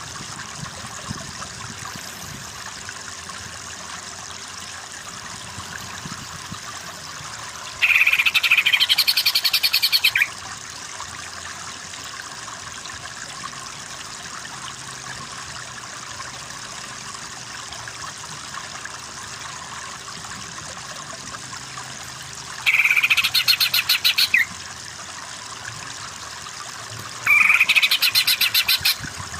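Greater green leafbird (cucak ijo) singing in three loud bursts of rapid, chattering trilled notes, each about two seconds long, the first about eight seconds in and the last two near the end.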